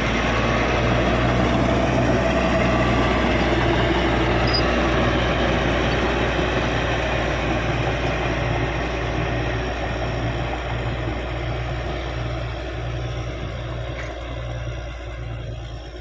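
Caterpillar D6G bulldozer's diesel engine running under load with the mixed clatter of the machine, steady and loud at first, then growing gradually quieter over the second half.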